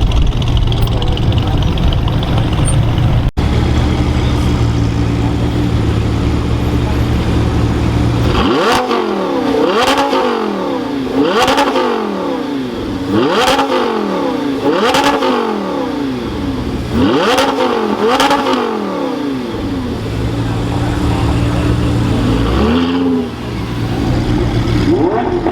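A car engine idling with a steady low rumble, then revved hard about seven times in quick succession, each rev rising and falling in pitch. One or two lighter revs follow near the end.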